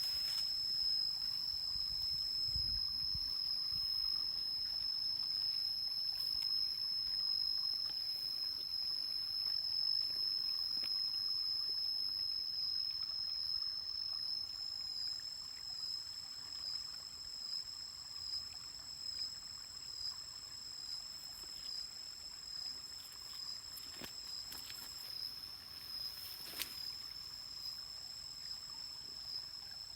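Insects in the forest keeping up a continuous shrill chorus, one steady high-pitched tone with a slight waver, over a faint even hiss. Two faint clicks come about two seconds apart near the end.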